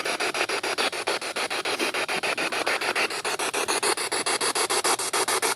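SB7 spirit box sweeping radio stations in reverse: rapid, chopped radio static that pulses about ten times a second, with faint snatches of station tone drifting through.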